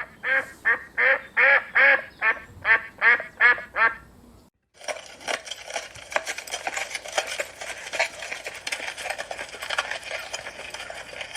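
Ducks quacking: a quick run of about a dozen evenly spaced quacks, roughly three a second. After a brief break comes a denser chatter of many overlapping calls.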